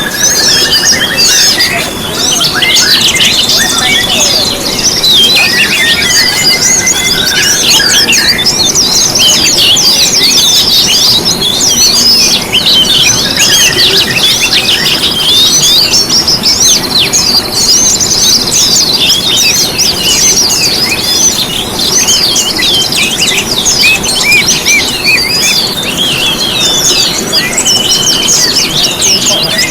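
A dense chorus of many small songbirds chirping and trilling over one another without a break, as in a lure recording played to caged songbirds to get them singing. A lower, steadier trill stands out in the first few seconds.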